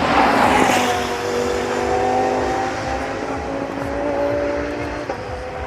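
Race car passing close at speed: a loud rush as it goes by in the first second, then its engine note holding steady and slowly falling in pitch as it draws away.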